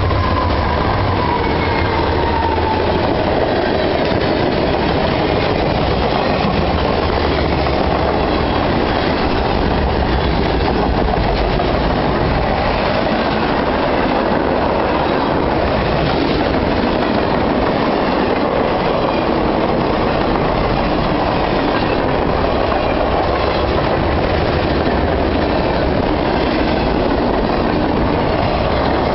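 A train passing close by: the steady, loud rumble and clatter of railcar wheels on the track, unbroken throughout.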